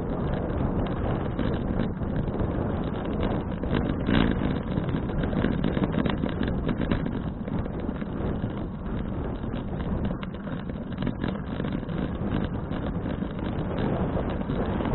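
Wind buffeting an action camera's microphone on a moving bicycle, a steady low rumbling noise with scattered crackles.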